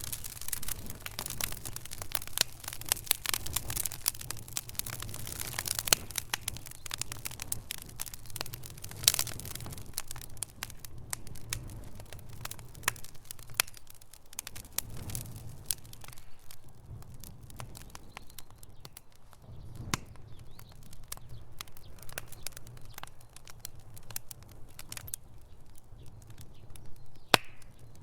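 Wood fire in a fireplace crackling, with frequent sharp pops and snaps over a low steady rumble. The pops come thickly at first and thin out to scattered single snaps in the second half.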